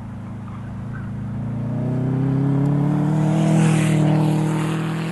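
Turbocharged Subaru engine accelerating under load, its pitch climbing for about three seconds and then levelling off. It is running with its variable valve timing (AVCS) solenoid connectors unplugged, and it pulls no differently than with them connected.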